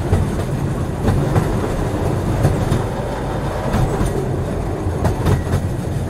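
Train running on steel rails: a steady low rumble of rolling wheels with irregular sharp clacks as the wheels cross rail joints.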